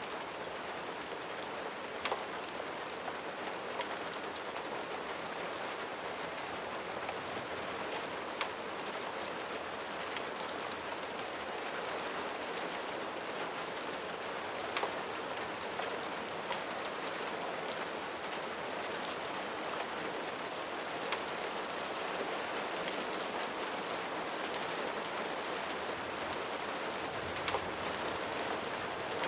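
Steady rain falling, with a few single sharp pops or ticks scattered several seconds apart.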